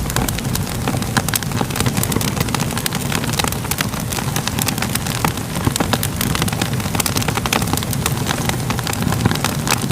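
A fire crackling and popping over a steady low rumble, with many small sharp snaps throughout.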